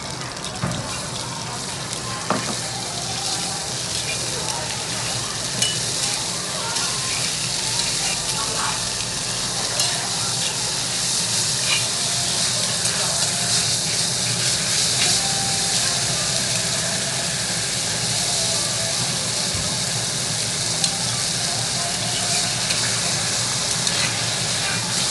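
Meat stir-frying in oil in a hot stone hotpot: a steady sizzle that grows louder over the first several seconds. Scattered clicks come from the utensil as it is stirred against the pot.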